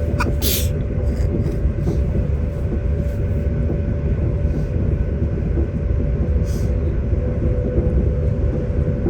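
Diesel passenger train running, heard from inside the carriage: a steady low rumble with a constant hum, and a few faint clicks near the start and again later.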